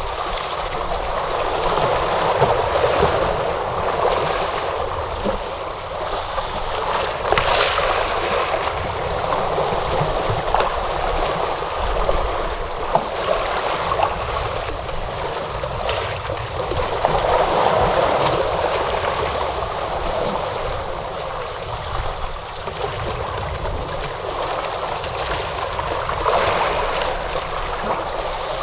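Ocean waves washing onto a shore, a continuous rush that swells and falls back in surges every several seconds, with brief splashes.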